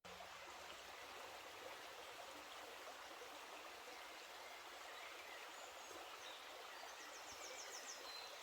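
Faint, steady rush of a river flowing through woodland. Near the end a bird gives a brief, quick, high trill.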